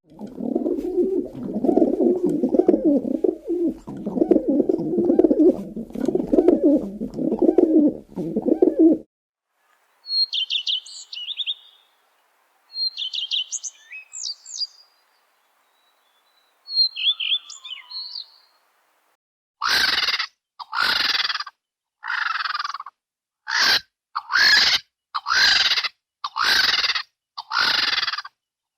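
Three different wild birds' calls in turn: about nine seconds of low, repeated calls, then a few short high chirps, then a series of about eight loud calls roughly a second apart.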